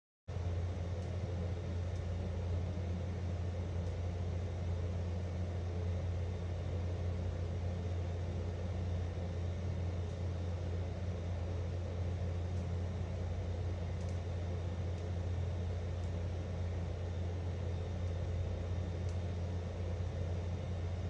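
Deep, steady rumbling noise with no rhythm or change. It starts abruptly and cuts off abruptly, as an edited-in background track would.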